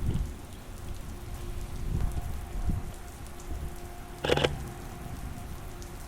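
Steady rain falling, with one brief sharp sound about four seconds in.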